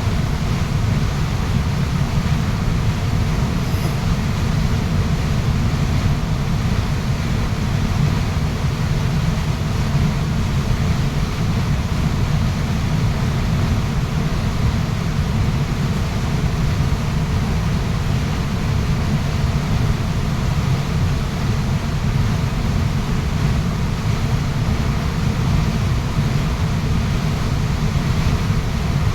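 Waterfall rushing steadily: a dense, even noise of falling water, heaviest in the low rumble.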